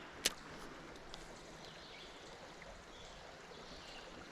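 River water running steadily, with one sharp click about a quarter second in.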